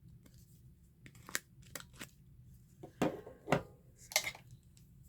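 A paper corner-rounder punch pressed down on card several times, clicking and then three louder crunching strokes near the end. It is failing to cut all the way through the corner.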